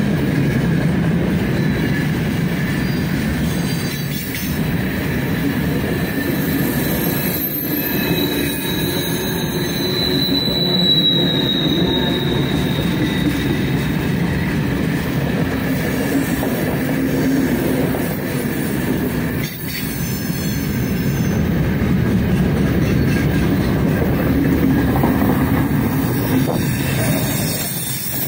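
Freight train of open gondola wagons rolling past at close range, with a steady rumble of wheels on rail. A thin high wheel squeal rides over it and is strongest about ten seconds in.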